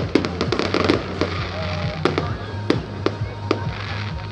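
Fireworks going off: a quick cluster of crackling bangs about half a second in, then single sharp bangs at irregular intervals, roughly every half second.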